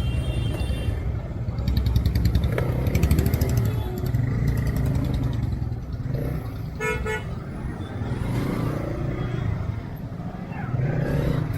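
Motorcycle engine running steadily while riding through busy traffic. A short vehicle horn toot sounds about seven seconds in.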